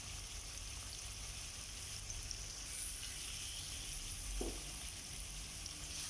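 Marinated chicken pieces sizzling steadily in hot oil in a steel pan, with a brief bump about four seconds in.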